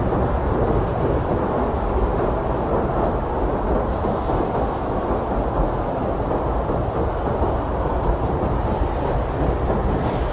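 Blizzard wind blowing hard and steadily: a deep, dense rush of noise, strongest low down, with no single gust or break standing out.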